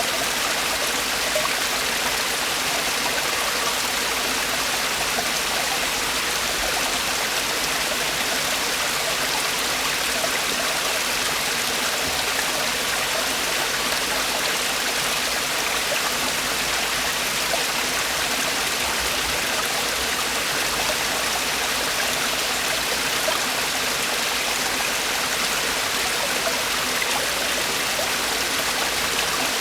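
Mountain stream water falling and rushing over rocks in a steady, unbroken splashing.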